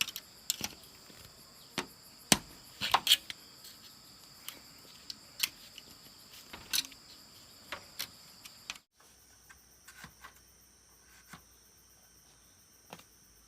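Steady high-pitched insect chirring, crickets or similar, with irregular sharp clicks and knocks over it. The knocks are most frequent in the first half. About 9 seconds in, the insect tone shifts to a different pitch.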